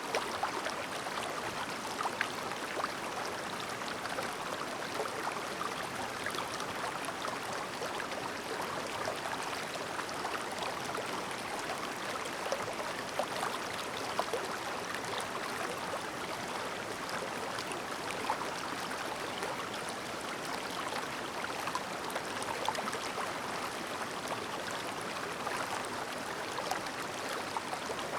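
Clear mountain river babbling over stones: a steady rush of running water with small splashes and gurgles throughout.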